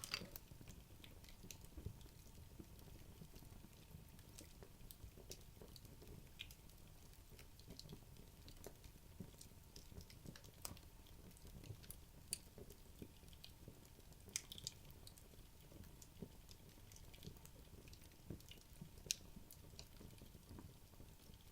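Wood logs burning quietly in a fireplace: faint soft flame noise with sparse small crackles and pops, a few sharper ones standing out.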